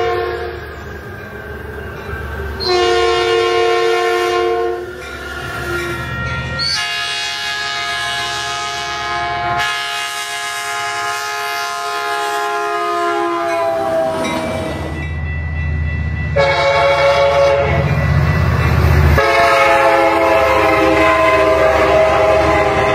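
Metrolink EMD F59PHI locomotive air horns sounding in a run of samples. First an old-cast Nathan P2 gives two chord blasts. Then a new-cast Nathan P2 gives one long blast that falls in pitch near its end as the train passes, and from about sixteen seconds in a Leslie K5LA, the units' emergency horn, sounds over the low rumble of the train.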